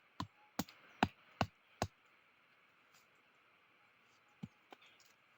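Sharp knocks: five in quick even succession, about two and a half a second, then two more about four and a half seconds in.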